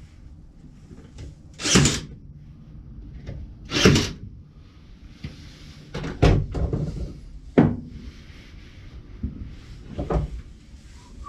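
Sharp knocks and thuds from handling and fitting cedar fence-picket boards on a workbench: five in all, the two loudest in the first four seconds.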